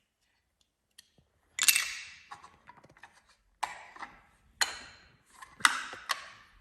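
Plastic Lego Duplo bricks knocking and clacking together, in about five sharp clacks with fainter ticks between them.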